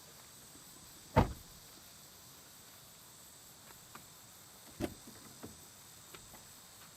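Two sharp knocks, a loud one about a second in and another near five seconds, followed by a few lighter taps.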